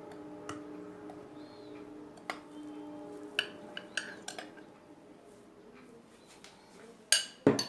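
Metal kitchen utensils and a bowl clinking and knocking a handful of times as flour is put into a sieve for sifting; the two loudest knocks come near the end.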